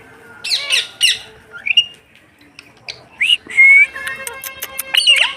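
Indian ringneck parrot giving a series of short, sharp squawks and brief whistled calls with gaps between them.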